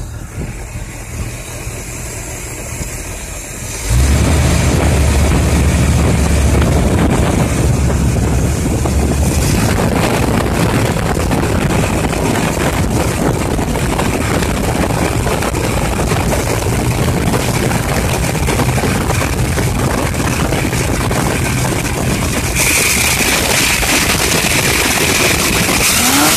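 Oldsmobile 455 V8 running on a freshly rebuilt Rochester Quadrajet four-barrel carburetor with its primary idle air screws just set. It gets markedly louder about four seconds in, and an airy rushing sound joins near the end.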